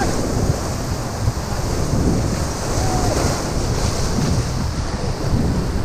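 White-water river rapids rushing and splashing around a raft, with wind buffeting the microphone, steady and loud throughout.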